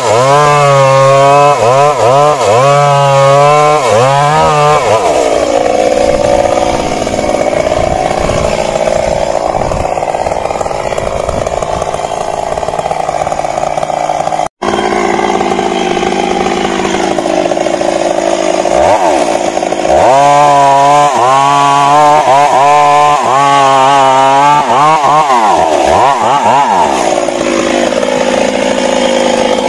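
Stihl MS 382 two-stroke chainsaw cutting into a large tree trunk. The engine pitch rises and falls rapidly for the first few seconds, then settles into a steady, lower note under load in the cut. Near the end the pitch again swings up and down for several seconds.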